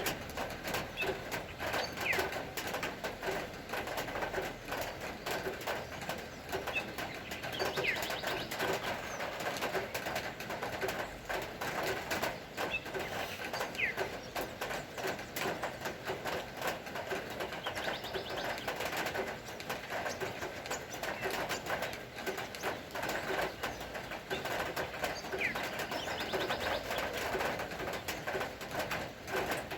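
Steady rain pattering, a dense even ticking, with birds calling over it: repeated low calls and a few short high chirps.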